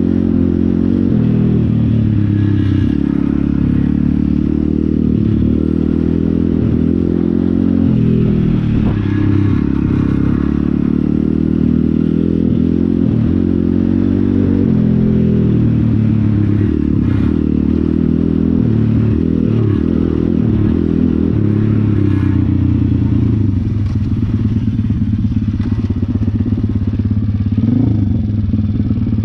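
Pit bike's small single-cylinder engine running, its pitch rising and falling with the throttle. Near the end it settles into a pulsing, lumpy idle.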